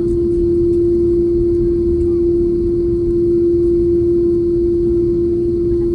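Airliner jet engines heard inside the passenger cabin: a steady low rumble with a constant single-pitched hum that does not change.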